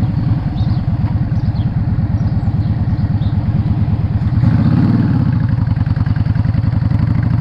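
Yamaha Drag Star 650's air-cooled V-twin running under way, a dense, steady beat of low exhaust pulses that swells louder briefly about four and a half seconds in.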